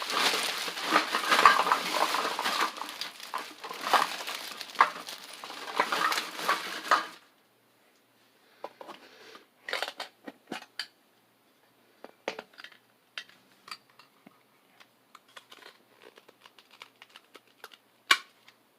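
Pokémon card packaging being handled and torn open: dense crinkling and rustling that stops suddenly about seven seconds in, followed by scattered light taps and clicks.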